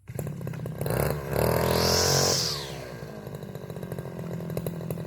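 Brush cutter engine being revved: a short burst of throttle about a second in, then a longer rev that climbs in pitch and falls back to a steady idle.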